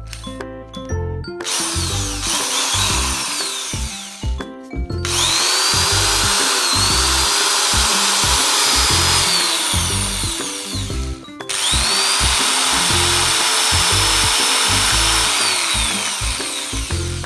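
A cordless power driver being run with no load in a function test: the motor spins up with a rising whine, runs steadily for several seconds, stops briefly about 11 seconds in and spins up again. Background music plays throughout.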